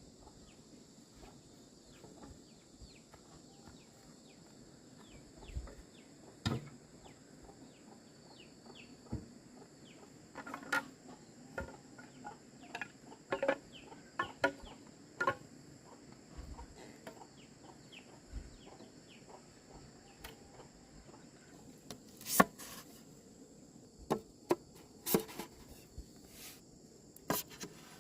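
Scattered sharp knocks and taps, more frequent and louder in the second half, over a steady high insect drone, with chickens clucking.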